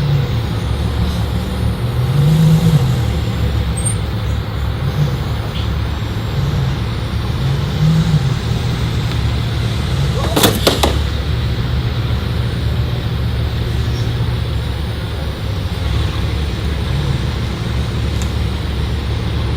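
Road vehicle driving, a steady low engine and road rumble that swells slightly now and then, with one brief sharp knock about halfway through.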